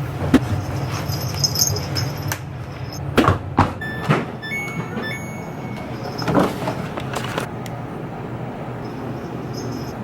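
Laundry being loaded into a washing machine: knocks and clunks of the drum and door, with a run of short beeps around the middle, over a steady low hum.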